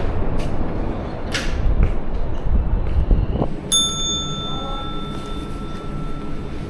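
Low rumbling wind noise, then about halfway through a single bright bell-like ding that rings on for about three seconds, fading slowly.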